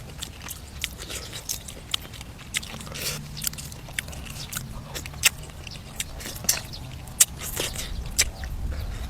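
A person chewing and biting braised duck, with irregular sharp crunchy clicks and wet mouth noises.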